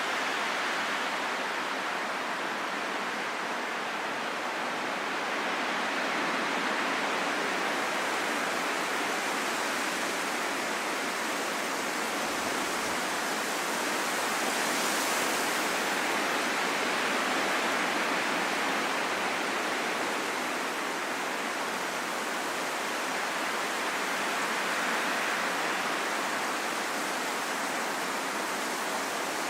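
Steady rushing wind, swelling and easing gently every several seconds, with no whistle or howl.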